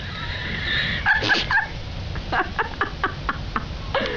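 An animal making a run of short, repeated calls, several in quick succession, over a steady low rumble.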